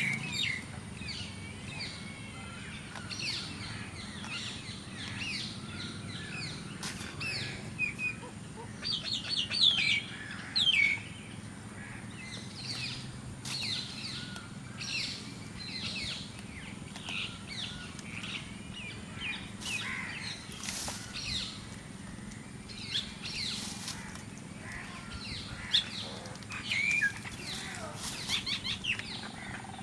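A flock of mynas calling: a busy, overlapping chatter of short whistles, squawks and chirps, with louder bursts now and then.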